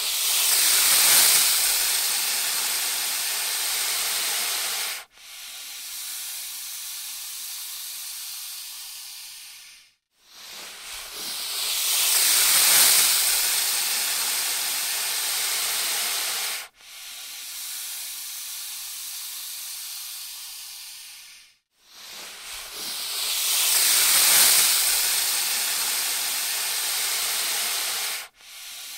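Python hissing in long breaths: a loud hiss lasting about five seconds, then a softer one, the pair repeated three times.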